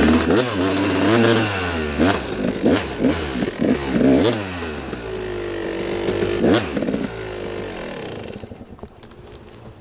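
Dirt bike engine revving up and down in quick, repeated bursts, with clatter and sharp knocks, as the bike is worked up a steep hill. The engine sound drops away after about eight seconds.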